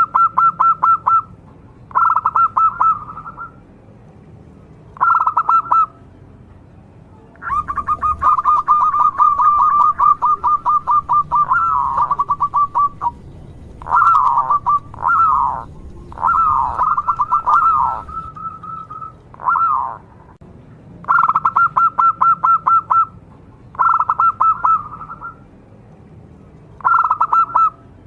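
Local zebra dove (perkutut) cooing: repeated bursts of rapid, evenly spaced notes on one pitch, each burst a second or two long, with one run that lasts about five seconds.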